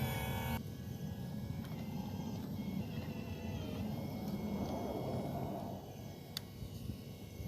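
Radio-controlled 6x6 truck running, a steady low rumble, with a sharp click about six and a half seconds in.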